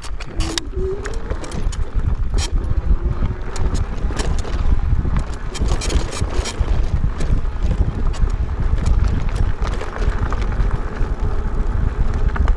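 Wind buffeting the microphone on a moving e-bike, a heavy low rumble, with frequent sharp clicks and rattles and a faint wavering whine underneath.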